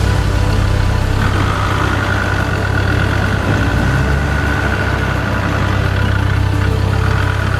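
Four-wheel-drive's engine idling steadily, a constant low hum with no revving.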